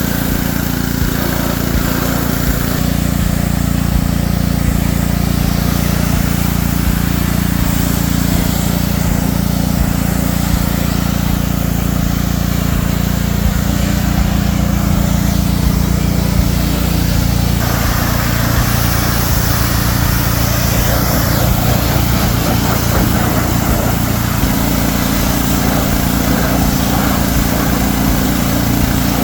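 An engine running steadily, its tone shifting a couple of times.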